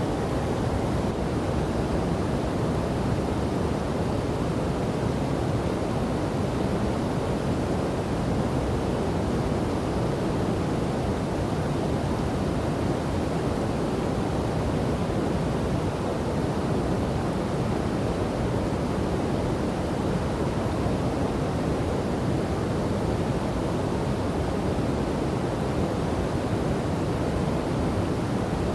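Steady rush of falling and flowing water from a waterfall and river, an even low roar without breaks.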